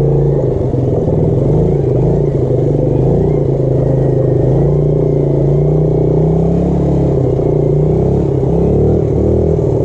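Small single-cylinder motorbike engine running steadily at low speed in first gear, its pitch wavering slightly as the throttle shifts.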